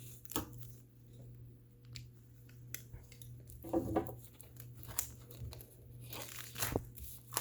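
A knife slitting and tearing open the packaging of a boxed desk calendar. Scattered crinkles and small clicks, getting busier near the end.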